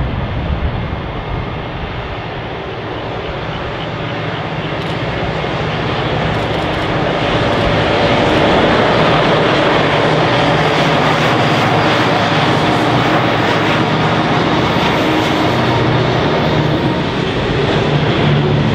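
Diesel-electric locomotives of a freight train approaching and running past, their engines droning steadily. The sound grows louder over the first several seconds and then stays loud.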